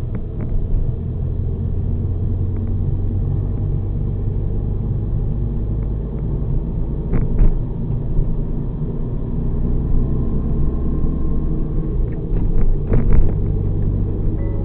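Mazda RX-7 FD3S with its twin-rotor rotary engine on the move: a steady low rumble of engine and road noise, with a few short knocks about halfway through and again near the end.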